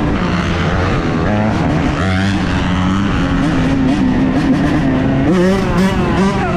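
Several dirt bike engines running and revving together, their pitches rising and falling and overlapping.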